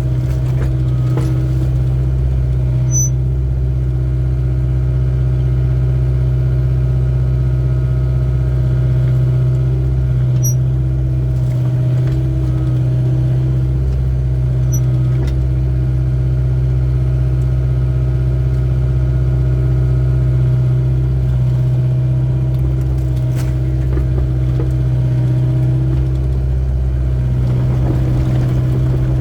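Excavator's diesel engine running steadily at a constant speed, with a deep, unchanging drone and a few faint ticks.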